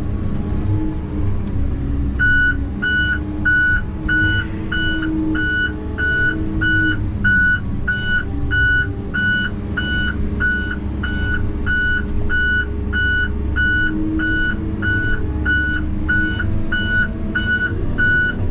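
Heavy logging machine's engine running under load, its backup alarm starting about two seconds in and beeping steadily about twice a second while it reverses.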